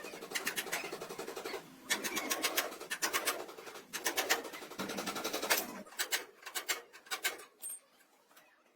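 Bursts of rapid, evenly spaced mechanical clicking, each lasting a second or two with short pauses between, thinning out after about six seconds.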